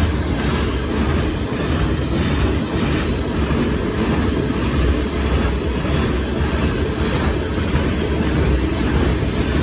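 Loaded open-top hopper cars of a Union Pacific gravel freight train rolling past close by: steel wheels running on the rails, steady and loud.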